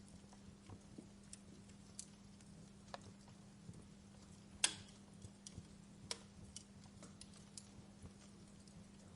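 Wood fire burning in a fireplace, crackling with sparse irregular snaps and one loud pop about halfway through, over a faint low steady hum.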